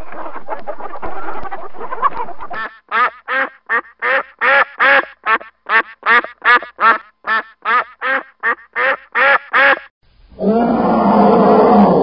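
Hens clucking for the first couple of seconds, then a duck quacking in a fast, even series of about twenty quacks, about three a second. Near the end a brown bear gives a deep, drawn-out roar.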